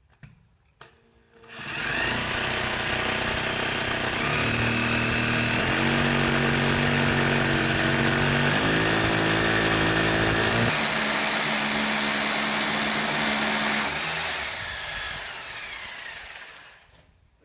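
Electric drill running under load while drilling a hole. Its motor pitch shifts a few times as the load changes, and it winds down near the end.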